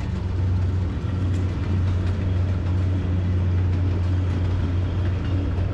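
A long train rolling past close by, a steady low rumble.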